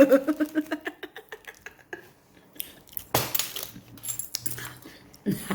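Tabletop handling clatter as a half-eaten mooncake is put back into its container: a quick run of small clicks, then a louder rustling knock a little after three seconds in, with cutlery clinking.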